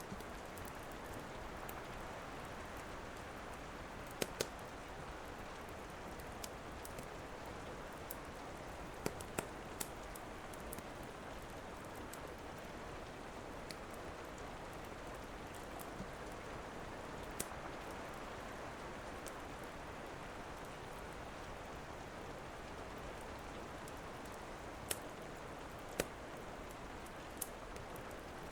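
Steady rain falling, with the occasional sharp pop and crack of a wood fire burning in a fireplace, a few seconds apart and irregular.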